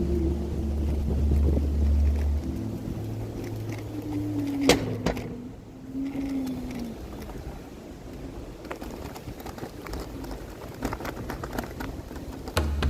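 Electric scooter riding over a rough dirt trail: scattered clicks and rattles over a noisy rumble, with a faint motor whine that falls in pitch about halfway through. Background music with deep bass notes plays at the start and comes back near the end.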